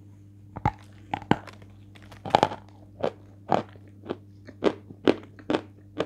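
Close-up crunching as a dry, hardened white marshmallow is bitten and chewed: a series of brittle crunches about two a second, the loudest a couple of seconds in. The piece is not very hard but slightly glassy.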